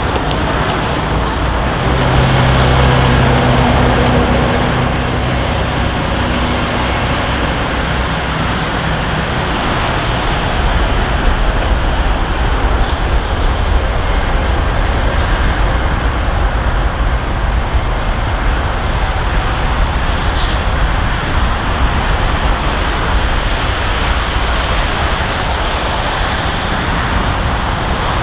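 Jet airliner engines running with a steady, loud rumble, with a low hum standing out briefly a few seconds in.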